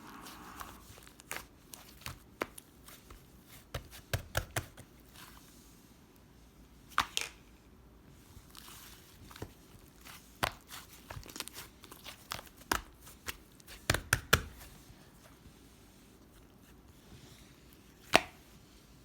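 Irregular sharp taps and clicks of small objects being handled, with faint crinkling between them.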